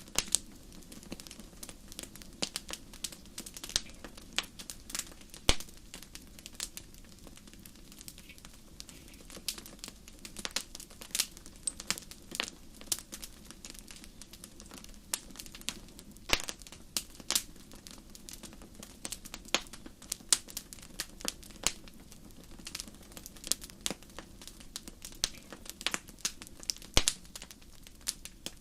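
Wood fire crackling: irregular sharp pops and snaps, some loud, over a steady low hiss.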